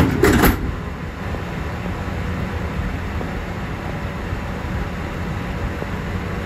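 Steady low rumble inside the rear car of a Mugunghwa-ho passenger train standing at a station platform. A few sharp knocks come in the first half-second.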